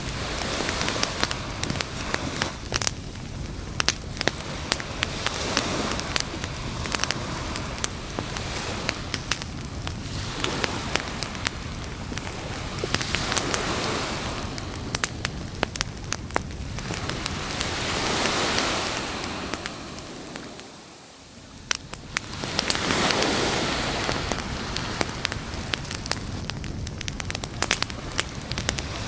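Beach campfire crackling with frequent sharp pops, over surf that swells and fades every four or five seconds.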